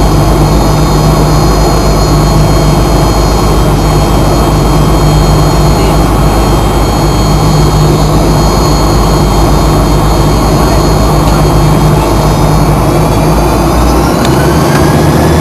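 Fokker 100's rear-mounted Rolls-Royce Tay turbofan engines heard from inside the cabin: a loud, steady rush with a low hum and high whine tones. About thirteen seconds in, the whine tones shift in pitch.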